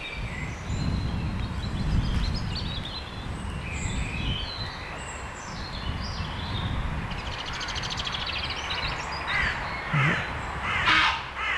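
Small songbirds twittering in woodland, with a low rumble in the first half. In the last couple of seconds ravens start calling, several caws in quick succession.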